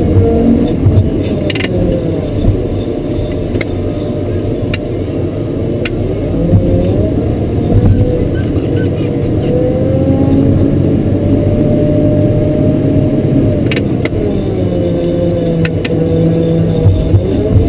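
Caterpillar 140K motor grader's diesel engine running under load, its pitch dipping and climbing back several times as throttle and load change. A few sharp clicks or rattles come through along with it.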